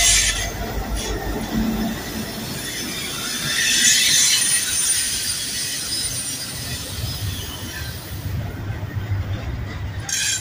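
Freight train passing close: diesel locomotives rumbling by at first, then double-stack container well cars rolling past with steady wheel-on-rail noise. A hissing rush swells and peaks about four seconds in.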